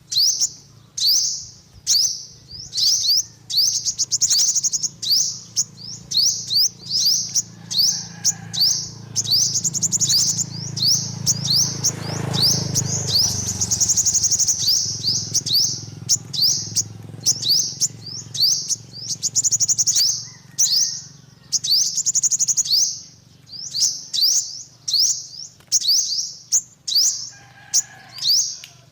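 Yellow-bellied sunbird singing: a quick run of short, high-pitched chirps and brief trills, roughly one to two a second, with a couple of longer trills partway through. A faint low rumble rises and fades near the middle.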